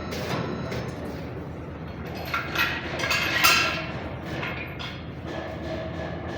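Metallic clinks and knocks over a steady background rumble, with a cluster of louder clanks about halfway through.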